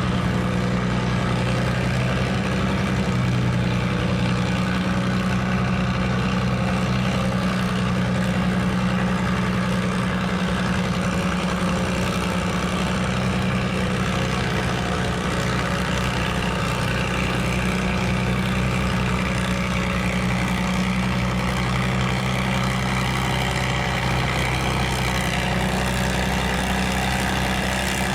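Farm tractor engine idling steadily, holding an even pitch with no revving.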